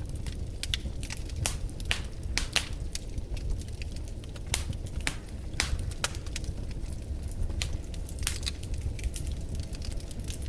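Fire crackling in a fireplace: irregular sharp pops and snaps, a few each second, over a steady low rumble.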